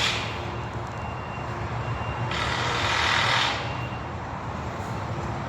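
Construction site machinery: a heavy vehicle's engine running steadily, with intermittent reversing beeps and two bursts of hiss, one right at the start and one about two and a half seconds in.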